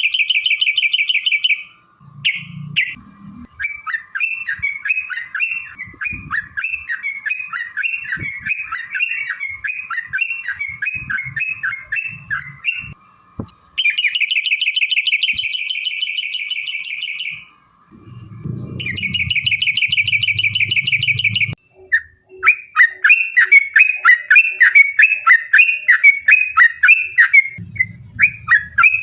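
Yellow-vented bulbul (trucukan) singing: fast, buzzy trills of two to four seconds alternating with long runs of rapid chattering notes. This is the 'ropel' song used as a lure to set other trucuk birds singing.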